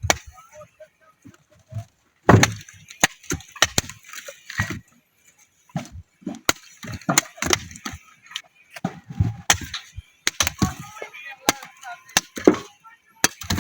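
Irregular sharp knocks and snapping cracks, a dozen or more spread unevenly over several seconds, some with a dull thud beneath.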